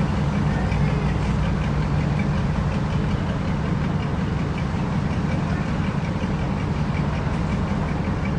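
Engine idling steadily, a constant low drone.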